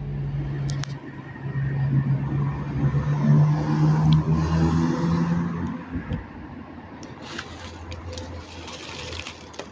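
Siemens Desiro multiple-unit train pulling into a station: a steady pitched drive hum that grows louder over the first few seconds. About six seconds in it drops to a quieter, lower hum as the train slows.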